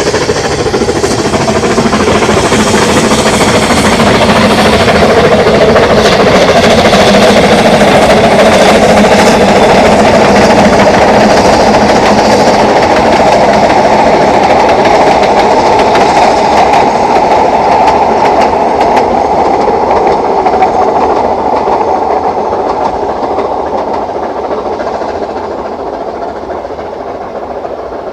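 Narrow-gauge train running past on the Ffestiniog Railway, wheels and wagons clattering over the rail joints. It grows louder over the first few seconds, then fades steadily as it draws away.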